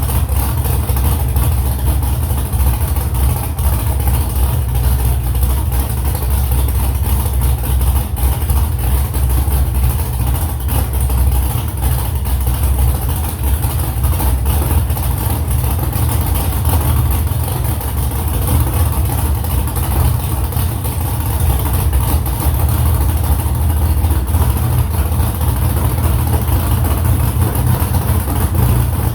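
Freshly built hot rod engine running steadily at idle, with most of its sound low and an even level, during its first runs after the rebuild.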